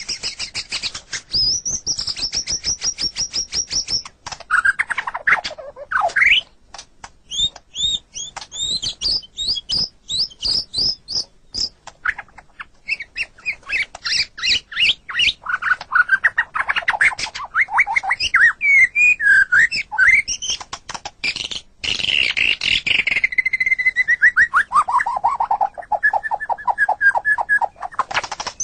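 White-rumped shama (murai batu) singing a long, varied song: fast runs of repeated high notes, sweeping whistled notes and rapid clicking notes, ending in a series of notes that fall steadily in pitch and then repeat on one tone.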